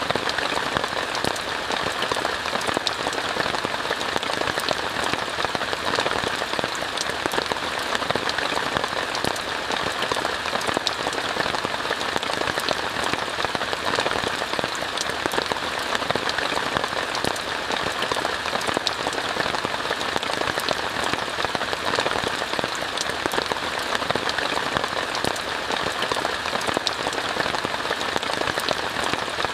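Steady rain falling on a tent: a dense, even hiss dotted with many small, sharp drop ticks.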